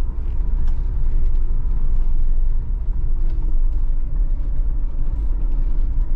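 Off-road truck engine running at low speed, a steady low rumble with a faint wavering engine note.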